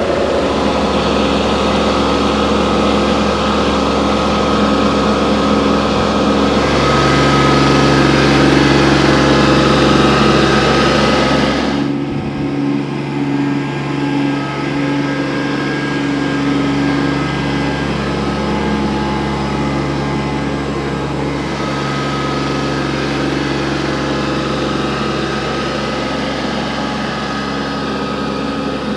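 Tractor engine running steadily as the tractor is driven, its note changing a few times. It shifts about a quarter of the way in and again near the middle.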